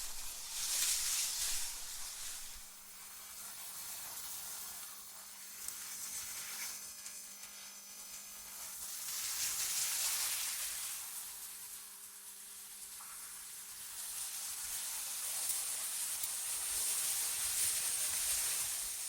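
Wind ambience for sleep, heard as an airy hiss that swells and fades in slow gusts every several seconds, with a faint steady low hum underneath.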